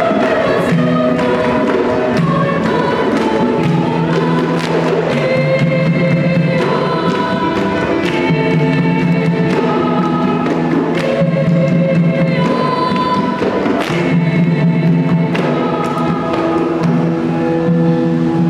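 Children's choir singing a Christmas carol, holding sustained notes that change about every second.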